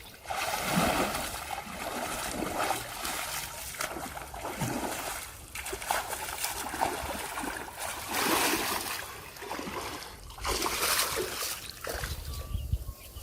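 Water splashing and trickling in irregular bursts, one every second or so.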